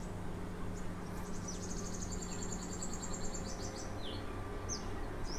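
Wild birds calling: a fast, high trill lasting about two seconds, then short high chirps that slide downward, repeated several times. A steady low hum runs beneath the trill and stops partway through.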